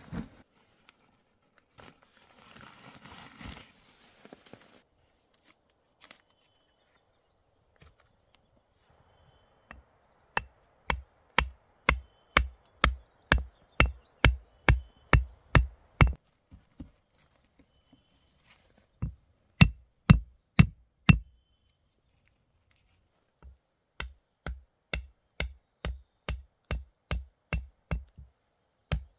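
Wood being chopped with an axe: sharp strikes with a dull thud, about two a second in steady runs, with a pause in the middle and a few heavier blows.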